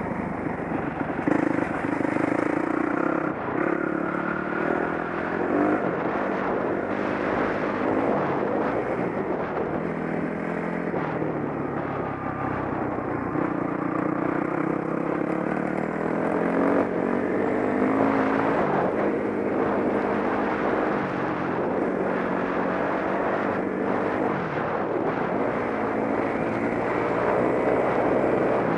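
Dirt bike engine running under way, its pitch rising and falling again and again as the rider opens and closes the throttle and shifts.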